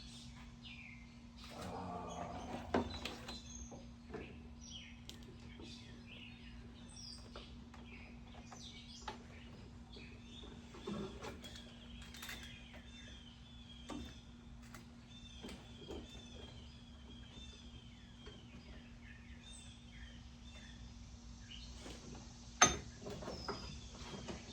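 Birds chirping in quick runs of short calls, heard faintly through the open garage door over a steady low hum. A few light knocks and clinks of work come through, the sharpest near the end.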